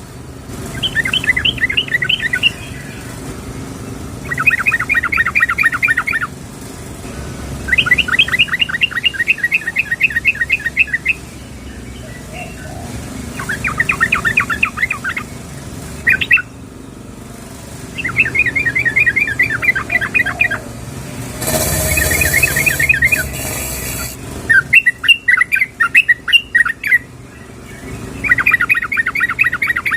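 Female yellow-vented bulbul calling: repeated bursts of quick, rapidly repeated notes, each burst one to three seconds long with short pauses between them. A brief rushing hiss comes through about two-thirds of the way in.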